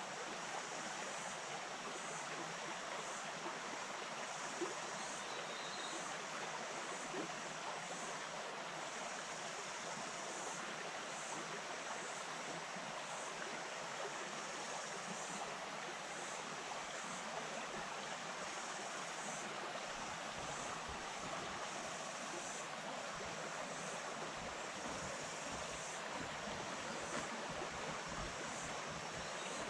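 Small bush stream flowing steadily over stones, an even rushing babble. A faint high hiss or buzz sits above it and cuts in and out every few seconds.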